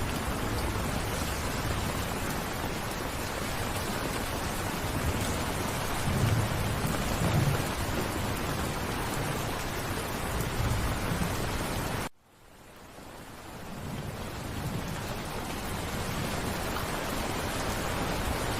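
Steady, heavy rain with a low rumble of distant thunder around the middle. About twelve seconds in, the sound cuts out abruptly and then fades back in over a couple of seconds, like a loop or edit point in the recording.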